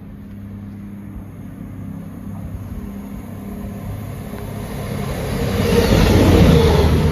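CrossCountry Class 221 Super Voyager diesel multiple unit passing through the station, its underfloor diesel engines running with a steady low hum. The train grows steadily louder from about halfway in, with wheel and rail noise building to its loudest near the end.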